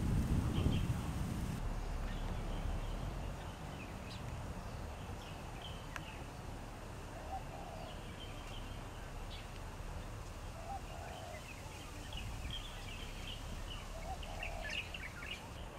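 Small birds chirping on and off, busiest near the end, with a short lower call repeated three times a few seconds apart. Wind buffets the microphone for about the first second and a half.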